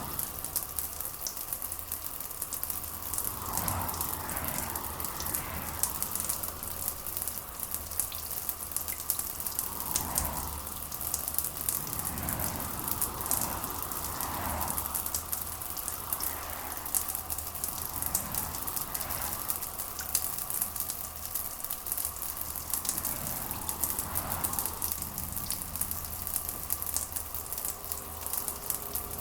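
Steady rain, a dense crackling patter of drops, with softer swells rising and fading every few seconds.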